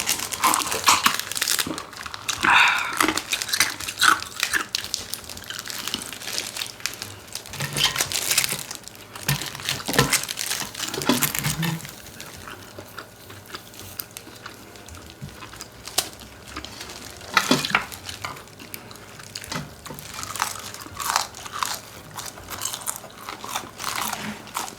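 Close-miked eating of crispy fried chicken and spicy bone-in chicken feet: irregular crunching bites and chewing, with crackling all through.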